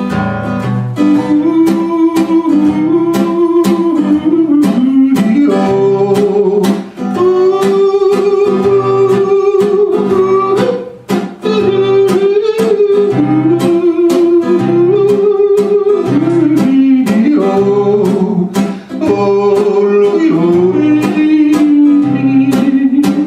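Country music: acoustic guitar strumming steadily under a long wordless vocal melody, held and gliding notes of a yodeled refrain.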